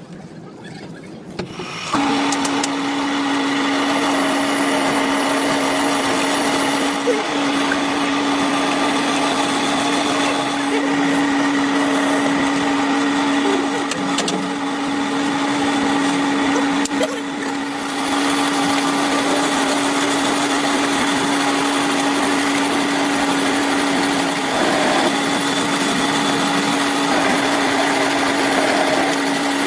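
A workshop machine motor starts about two seconds in and runs steadily with a constant hum and hiss, dipping briefly once near the middle.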